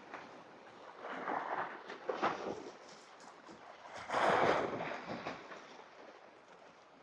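Sea waves washing against shore rocks in a few swells, the loudest about four seconds in.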